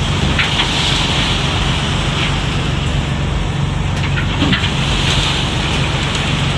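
A boat's engine running with a steady low hum under constant wind and sea rush.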